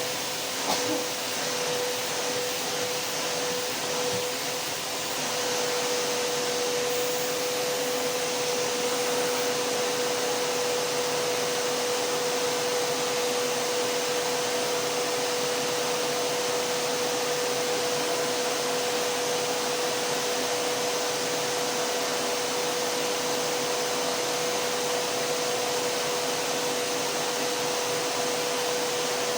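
Vacuum cleaner running steadily: a dense rushing hiss with a steady motor whine held on one pitch. A few faint knocks and some unsteadiness come in the first few seconds, then it runs evenly.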